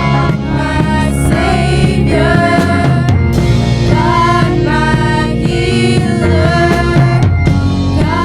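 Band music with drum kit and bass under a melody line whose notes bend and slide in pitch.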